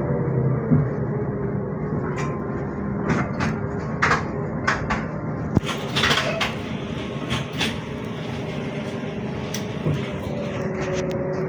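ZiU-682G trolleybus running, heard from inside the cabin: steady motor hum and road noise with a faint whine that falls in pitch at the start and rises again near the end. In the middle there is a run of short rattles and knocks from the body.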